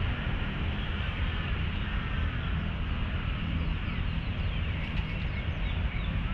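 Outdoor city-park ambience: a steady low rumble under faint bird chirps in the middle.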